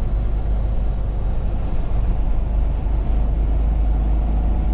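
Truck driving along: a steady low engine and road rumble.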